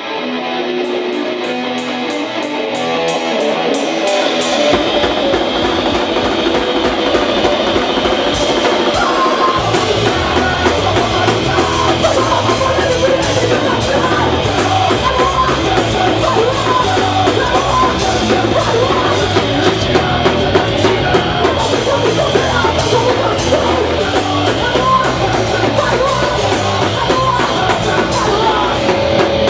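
A hardcore punk band playing live at loud volume: electric guitar and drums open the song, and the low end of bass and kick drum fills in about nine seconds in, after which the full band plays on.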